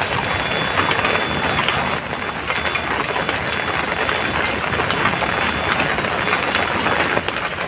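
Heavy rain falling steadily: a dense hiss of rain with many individual drops pattering through it.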